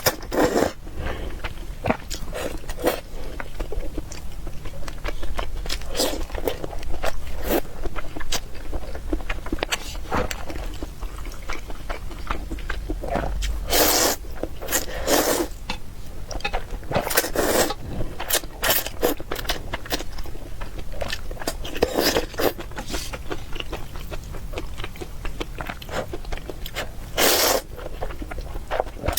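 Close-miked eating of spicy Ottogi instant ramen: chewing and biting mouth sounds, in short bursts coming several times a second, with a louder, longer burst every few seconds.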